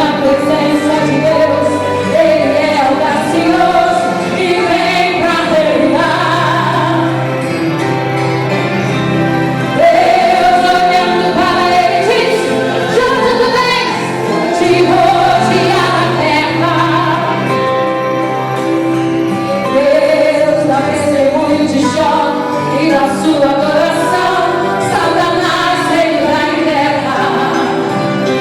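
Gospel song sung by a group of women, a solo voice with backing vocals over a steady instrumental accompaniment.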